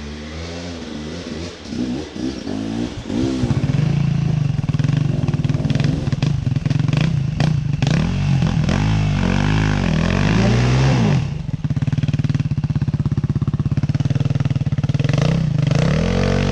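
Off-road vehicle engine revving up and down again and again as its tyres spin for grip on a slick, muddy climb. The revving is loudest in the middle, and the engine note turns choppier about eleven seconds in.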